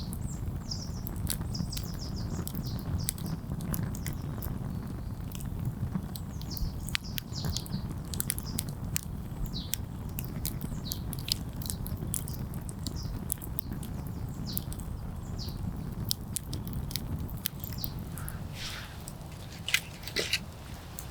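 Wood campfire burning with a steady low rush and frequent sharp crackles and pops. Small birds chirp now and then, with a cluster of calls near the end.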